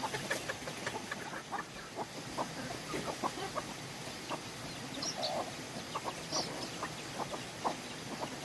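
Poultry calling: many short, scattered clucks and peeps from a flock of birds, with a couple of higher chirps over steady background noise.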